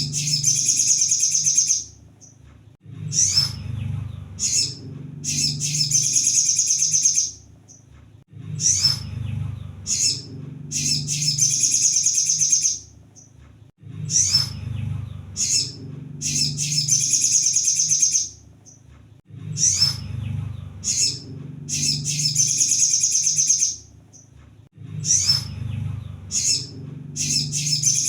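Sunbird (kolibri sogon) song: a few sharp high chirps, then a fast, dense, high trill lasting about two seconds. The phrase repeats about every five and a half seconds, five times in all, over a steady low hum.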